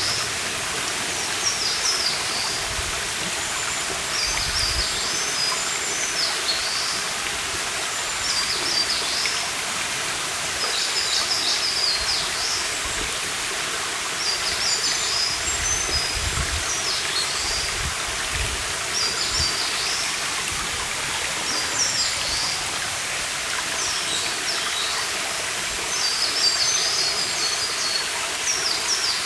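Stream water running steadily, with a small songbird singing short, high-pitched phrases over it, repeated every second or two.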